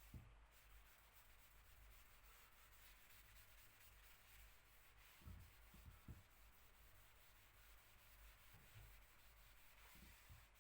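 Near silence: faint hiss with a few soft low thumps, one at the start and two close together around the middle.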